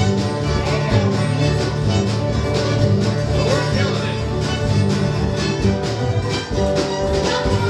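Bluegrass band playing live, a fiddle line over guitar and a steady strummed rhythm.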